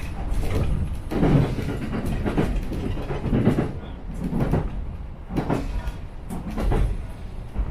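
Shinano Railway SR1 series electric train running, heard from aboard, its wheels knocking over rail joints about once a second over a steady low rumble.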